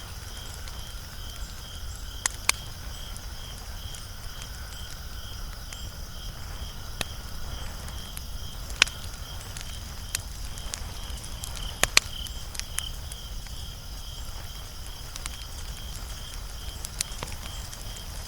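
Wood fire crackling, with sharp irregular pops and snaps over a low steady rumble. Behind it, insects chirp in a high, even pulse a few times a second.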